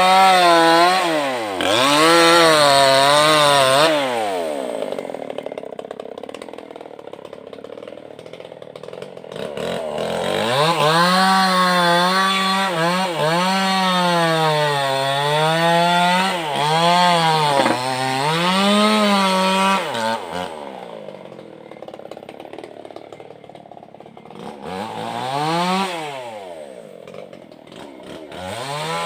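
Two-stroke Maestro chainsaw with a Stihl chain running while cutting wood. Its engine pitch wavers up and down under the cut, drops back to a low idle about five seconds in, runs high again from about ten seconds to twenty, then falls to idle with one short rev near the end.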